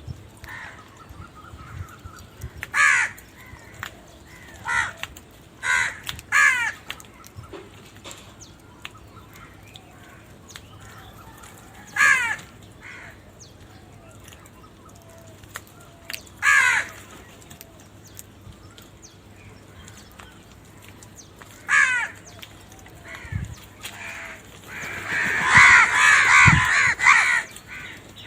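Crows cawing: single harsh caws every few seconds, then a burst of several overlapping caws near the end.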